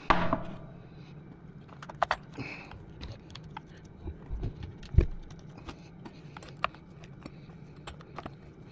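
Light metallic clinks and clicks of a chainsaw's chain and bar being handled as the thrown chain is refitted. There is a dull thump about five seconds in.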